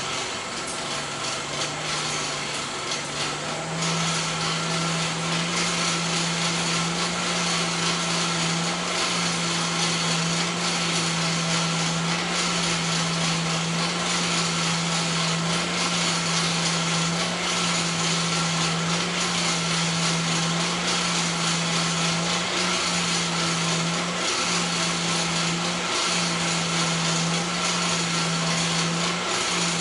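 A high-speed electric motor, such as a power tool's, spinning up over the first few seconds and then running steadily, with a hiss over it. Its pitch dips briefly a few times near the end.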